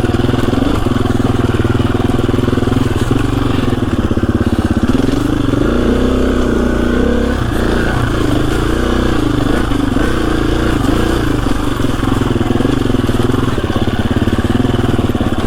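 KTM 350 EXC-F four-stroke single-cylinder dirt bike engine running at low revs while being ridden along a trail, the revs rising and falling gently about a third of the way in.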